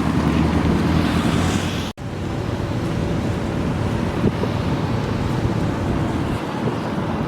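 A steady engine hum mixed with rushing road or wind noise. It cuts out for an instant about two seconds in, then resumes.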